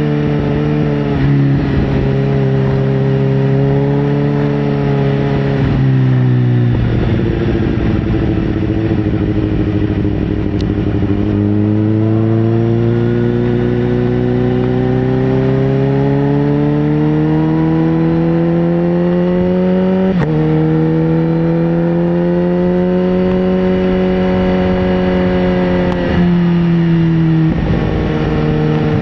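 Sportbike engine pulling under acceleration. Its pitch climbs steadily, then drops sharply at gear changes, three times.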